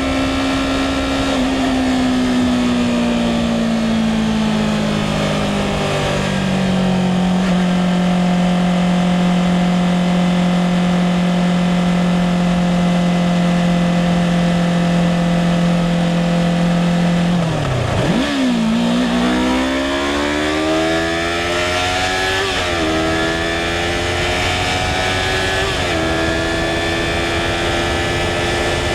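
Yamaha R3's 321 cc parallel-twin engine heard from the rider's seat over wind noise. The revs sink slowly for several seconds and hold steady for about ten. Then they dip sharply and climb again as the bike accelerates, shifting up through the gears near the end.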